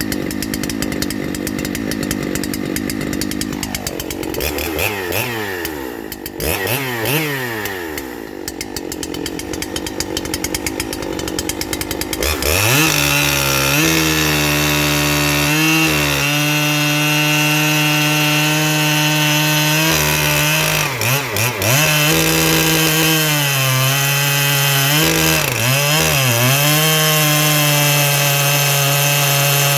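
Ported Husqvarna 3120XP chainsaw, a big two-stroke, revving up and down in short blips. About twelve seconds in it settles to a steady, lower note as it cuts into a large log under load, dipping briefly a few times.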